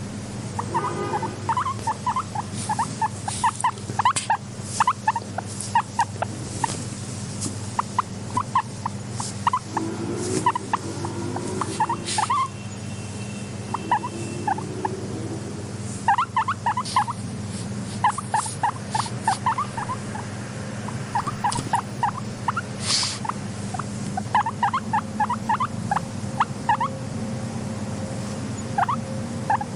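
Guinea pig squeaking in quick runs of short chirps, with a few rustles, over a steady low hum.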